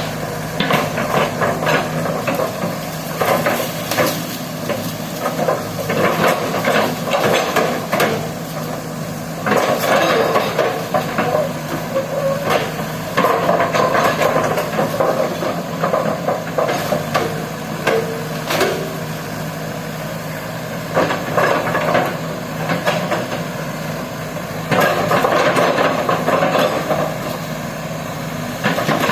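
Excavator's diesel engine running steadily, with repeated bursts of clanking and knocking from the machine at work.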